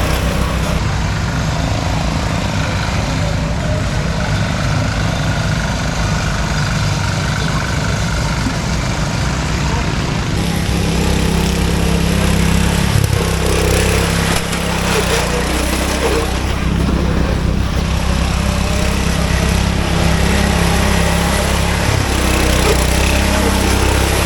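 Riding lawn mower engine running hard, steady, with its pitch shifting now and then as it revs up and down.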